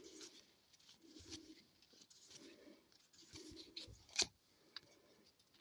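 Faint handling of trading cards, cards sliding and flicking against one another as a pack is gone through, with a sharp click about four seconds in.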